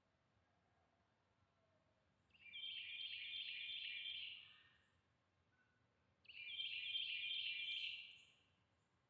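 A songbird singing twice, each song a fast run of repeated notes lasting about two seconds, the first a little over two seconds in and the second about four seconds later.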